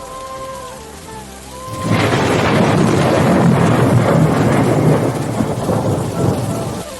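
Rain falling under soft music, then about two seconds in a loud thunderclap breaks and rumbles on for around five seconds before cutting off abruptly.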